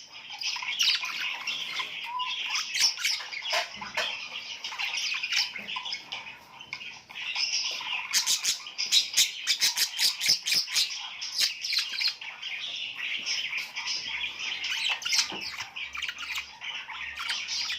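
A flock of small birds chirping and squawking together in a dense, unbroken chatter of short, high calls, busiest about halfway through.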